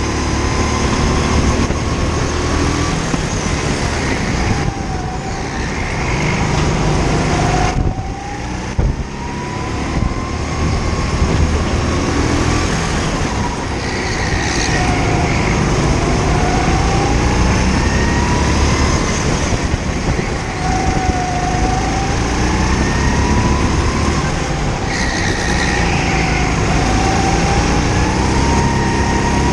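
Go-kart engine heard onboard while lapping. Its pitch climbs steadily through each straight and drops sharply under braking, several times over, above a heavy low rumble.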